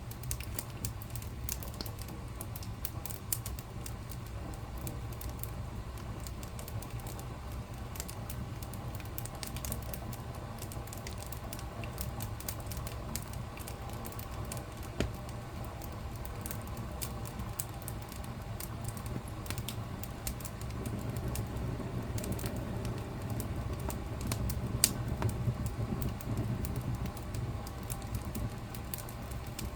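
Wood fire burning in a fireplace: a steady low rumble of flames with many small crackles and pops, and one louder pop near the end.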